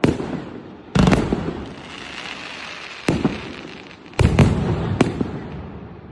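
A 2.5-inch-bore, 50-shot firework cake firing aerial shells, heard as about five or six loud, irregularly spaced bursts, two of them close together, each followed by a fading crackle.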